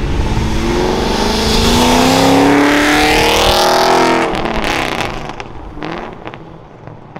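Chevrolet Camaro accelerating hard past and away, its engine revving up in pitch, loudest a couple of seconds in, then fading into the distance over the last few seconds.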